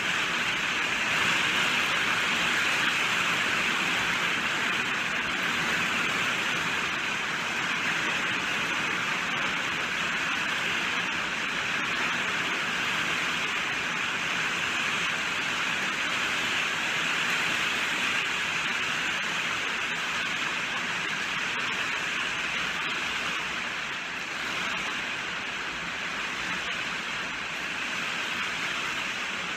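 Steady rain falling, an even hiss that runs without a break.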